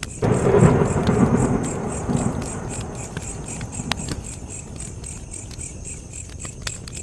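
Campfire crackling with sharp pops, and crickets chirping in an even pulse. About a quarter second in, a sudden loud low rumble starts and slowly fades over several seconds.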